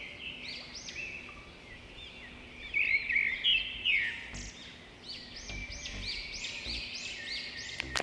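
Birds singing: runs of short whistled notes, each rising and falling, repeated several times a second, loudest about three seconds in.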